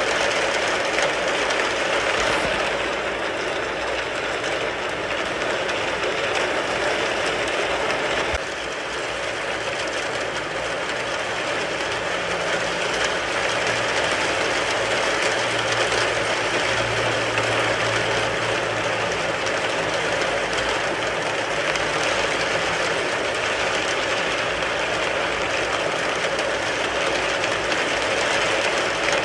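Steady rain drumming on a car's roof and body, heard from inside the car. The rain's level drops slightly and abruptly about eight seconds in, and a faint low hum sounds under it midway.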